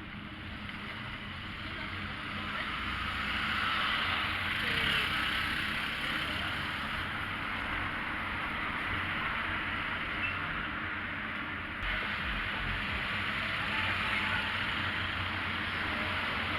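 Street traffic noise with wind rushing over the microphone of a moving bicycle, a steady hiss and rumble that swells for a few seconds near the start.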